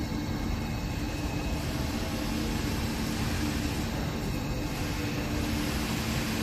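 A motor running steadily on test: an even whirring noise with a steady low hum that fades in and out.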